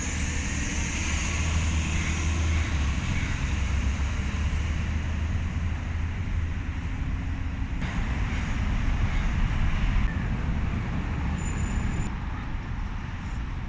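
Road traffic noise with a steady low engine hum, stronger in the first half.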